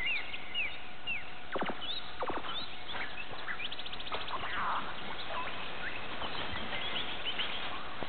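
Birds chirping: many short, high calls falling in pitch, a few quick swooping whistles and a brief rapid trill near the middle, over a steady outdoor hiss.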